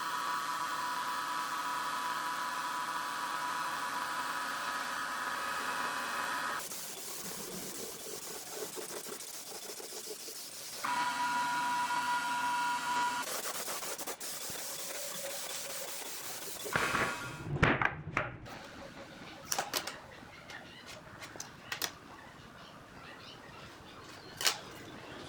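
Woodworking shop sounds in short edited cuts: a power tool running with a steady whine, then scattered knocks and clicks of wood being handled.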